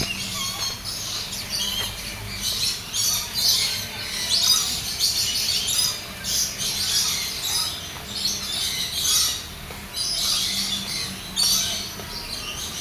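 Many birds calling at once: a dense, overlapping chatter of short, high chirps and squawks, coming in clusters every second or so.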